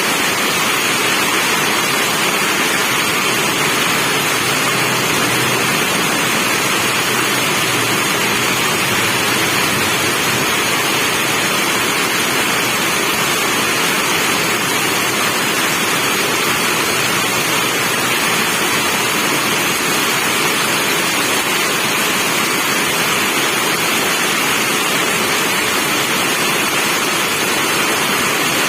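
Steady rain falling, a dense even hiss with no single drops or gaps standing out.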